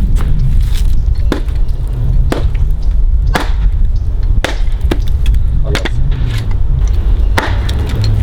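Firewood being chopped by hand: sharp strikes of a blade into wood, roughly one a second, over a steady low rumble.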